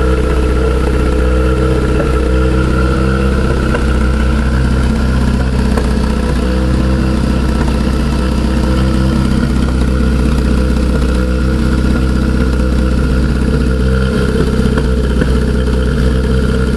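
1967 Triumph Spitfire Mk III's 1296 cc four-cylinder engine idling steadily, still cold after sitting unstarted for a week or two.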